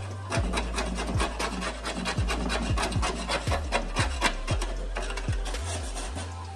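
A hand tool rasping back and forth on metal in quick, even strokes, several a second.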